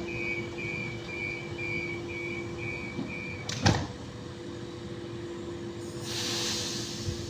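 Passenger train door-warning beeps, about two a second, stop just before the doors shut with a thud about three and a half seconds in. A short hiss of air follows about six seconds in, over a steady hum.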